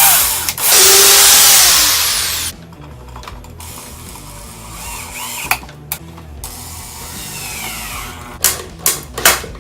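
Electric drill boring a hinge hole in wood: it runs loudly with a whine, drops in pitch and stops about two and a half seconds in. A few sharp clicks or knocks follow near the end.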